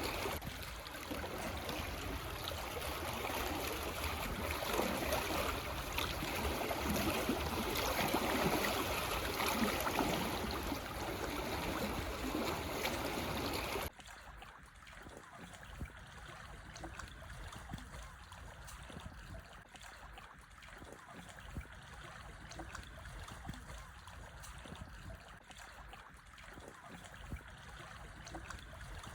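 Gentle sea waves lapping and washing over stones at the shore, a steady wash of water. About halfway through the sound drops suddenly and carries on more quietly.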